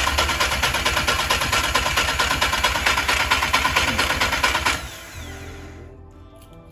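Volkswagen Polo's rebuilt 1.4 petrol engine running loudly with a fast, even beat. It cuts off abruptly about five seconds in, and soft music plays after it.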